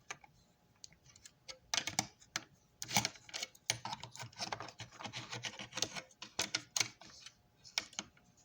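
Small parts of a toy train locomotive being handled: irregular light clicks and taps, sparse at first, coming thick from about two seconds in and thinning out near the end.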